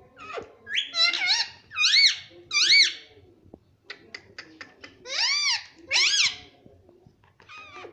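Ring-necked parakeet calling: a series of loud, high-pitched squawks, each rising and then falling in pitch, three in quick succession early and two more about five seconds in, with faint clicks between them.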